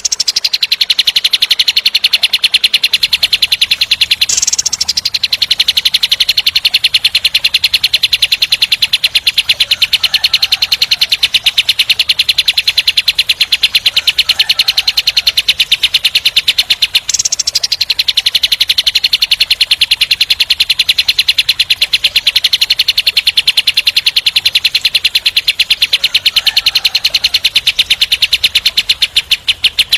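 Kapas tembak songbird singing a long, rapid, coarse trill that runs on without a break. Brief higher notes cut in about four seconds in and again around seventeen seconds.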